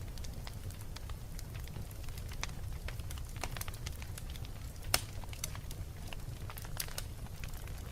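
Wood fire crackling in a fireplace: irregular pops and snaps over a steady low rumble, with the loudest pop about five seconds in.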